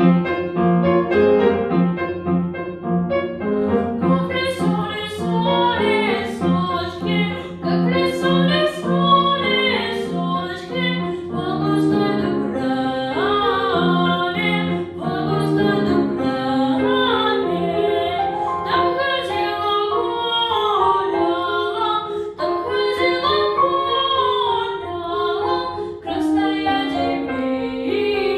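Female solo voice singing a Russian folk song in a classical, operatic style with piano accompaniment; the piano plays alone at first and the voice comes in about four seconds in.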